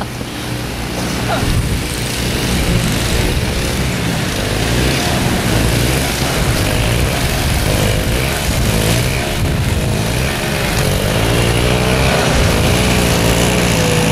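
An engine running steadily and close, building over the first couple of seconds and then holding.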